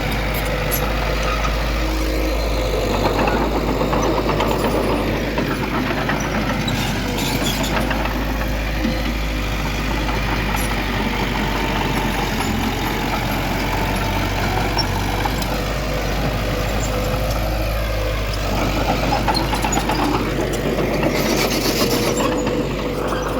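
Heavy diesel earthmoving machinery running under load, its engine note rising and falling several times as it revs. A steady whine runs underneath, with a few brief clanks.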